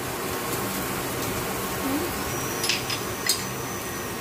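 Sliced onions frying in oil in a nonstick pan, a steady sizzle. Two light clicks come close together a little past the middle.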